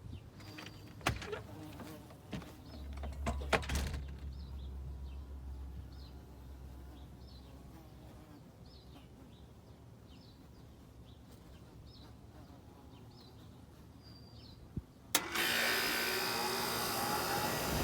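A 3-ton Miller air conditioner's unit starts: about 15 seconds in there is a sharp click, then a sudden steady rush of compressor and fan noise that keeps running. Before that, a few scattered clicks and a brief low hum, then a quiet stretch with faint high chirps.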